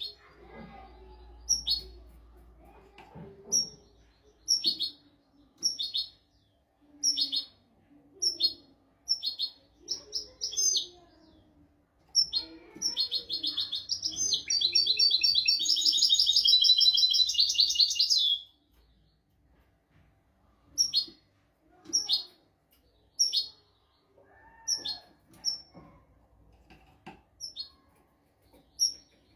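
European goldfinch singing: short, high, downward-sliding notes about once a second, breaking about twelve seconds in into a fast, continuous twittering phrase that lasts about six seconds, then back to the spaced single notes.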